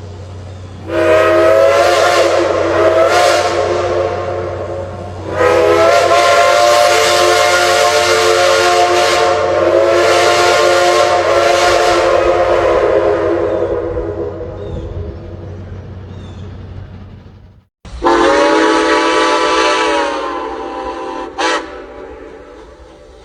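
Steam locomotive whistle sounding a short blast, then a long blast that fades away, then after a brief break another blast and a quick short toot, over a steady low rumble.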